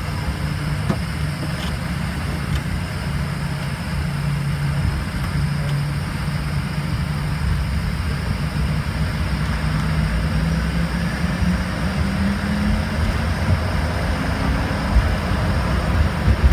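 Inside the cabin of an Embraer ERJ-145 regional jet: the steady low rumble of its rear-mounted Rolls-Royce AE 3007 turbofan engines. An engine tone rises in pitch in the second half as the sound grows slightly louder.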